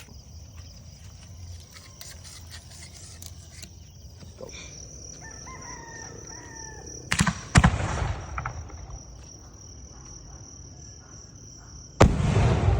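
4-inch starmine fireworks firing: a sharp double bang about seven seconds in, trailing into a second or so of crackling, then another sharp bang near the end with crackling running on. Just before the first, a rooster crows over steady cricket chirping.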